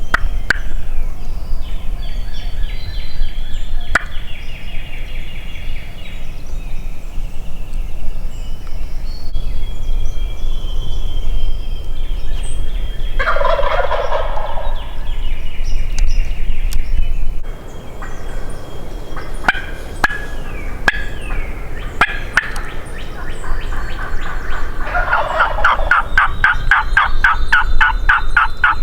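Wild turkey gobblers (longbeards) gobbling from the roost: fainter gobbles early on, a loud gobble about halfway through and a longer, louder rattling gobble near the end.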